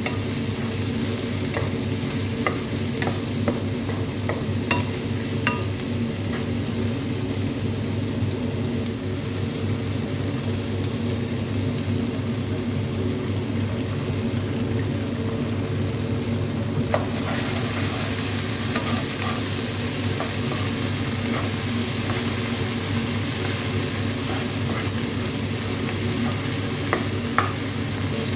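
Diced onion and tomato sizzling in a nonstick frying pan while a wooden spatula stirs and scrapes, with a few sharp ticks from the spatula against the pan. The sizzle grows brighter and louder a little past halfway. A steady low hum runs underneath.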